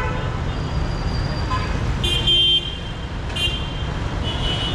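Dense city street traffic rumbling steadily, with several vehicle horn toots: a loud blast about two seconds in, a shorter one about a second later and another near the end.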